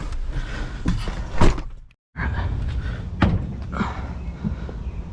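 Scattered knocks and thuds of junk being shifted and stepped on inside a dumpster, over a steady low rumble. The loudest knock comes just before the sound drops out completely for a moment, about two seconds in.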